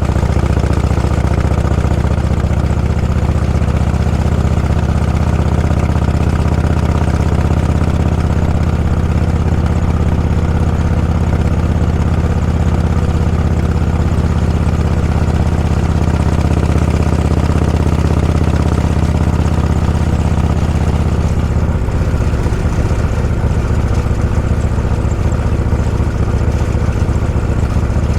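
Motorcycle engine running steadily under way, a loud low engine note; about three-quarters of the way through the note changes and turns rougher.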